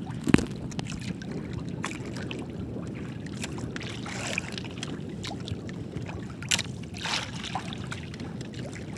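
A small fishing boat at sea makes a steady low rumble. Scattered knocks and brief swishes run over it, and a sharp knock just after the start is the loudest sound.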